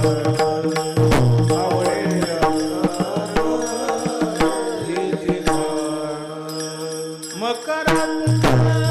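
Marathi kirtan devotional music: a melody with wavering, ornamented notes over a steady drone, with drum strokes and sharp metallic percussion keeping time. The low drum part drops out around the middle and comes back near the end.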